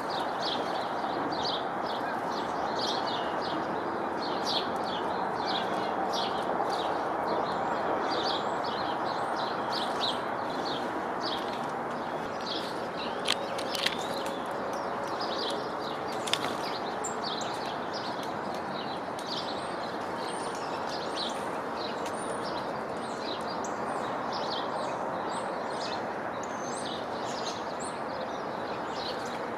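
Small birds chirping: many short, quick chirps, repeated throughout, over a steady background noise. A few sharp clicks come around the middle.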